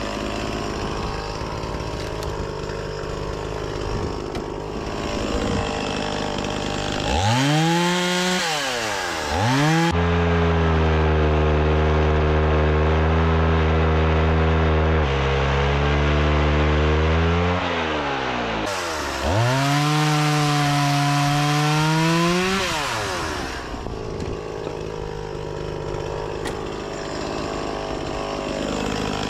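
Two-stroke chainsaw idling, then revved up and cutting through fruitwood logs for about eight seconds, its pitch dropping a little under load partway through. It revs once more briefly and falls back to idle.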